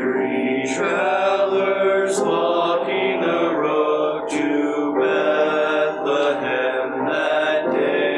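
Church choir singing sustained chords with accompaniment, the sung words' 's' sounds audible now and then.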